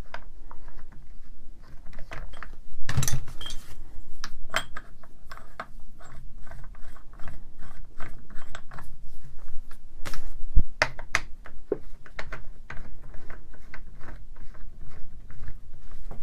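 Irregular clicks, rattles and knocks of small metal parts being handled as a side handle and depth-gauge stop are fitted to a rotary hammer and a wing nut is tried on the stop's thread. There are louder knocks about three seconds in and again near ten seconds.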